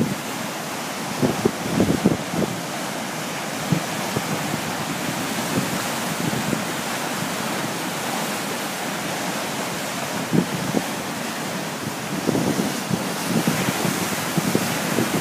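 Strong wind buffeting the microphone in irregular gusts over a steady rushing noise, the gusts heaviest early on, around the middle and again near the end.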